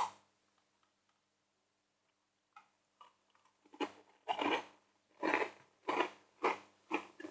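Crunchy chocolate chip cookies being chewed close to the microphone. There is a single click at the start, then after a few faint clicks, steady crunches about one to two a second begin about four seconds in.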